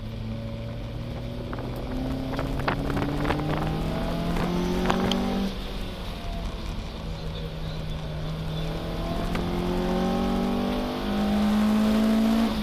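BMW 02 race car's four-cylinder engine heard from inside the cabin under hard acceleration, rising in pitch, dropping at a gear change about five and a half seconds in, rising again, then jumping higher and louder about eleven seconds in. Sharp rattles and knocks come through between about two and five seconds in.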